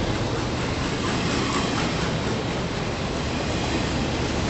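Double-stack intermodal freight cars rolling past: a steady noise of steel wheels on rail.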